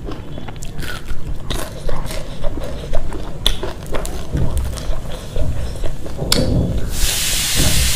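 Close-miked chewing and biting of fried fish and rice, with small wet clicks and smacks from the mouth and fingers. A steady hiss sets in near the end.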